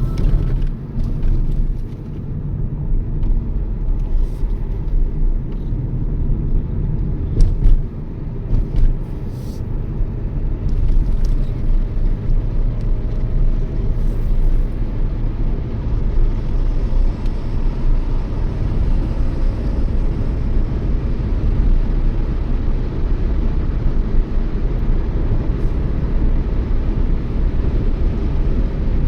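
Toyota Yaris driving at steady speed: continuous engine and tyre rumble, with a few faint clicks in the first ten seconds.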